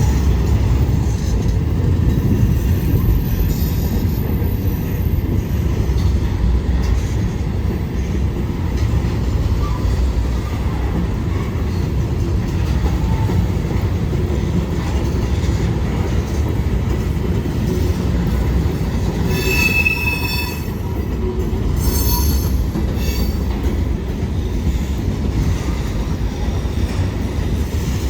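A freight train's cars rolling past with a steady rumble of wheels on rail. Short, high-pitched wheel squeals come twice, about twenty seconds in and again a couple of seconds later.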